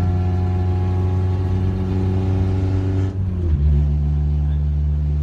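Honda H23 2.3-litre four-cylinder engine, heard from inside the car's stripped cabin while driving, running really loud and steady. About three seconds in the revs drop and the engine settles at a lower, steady pitch.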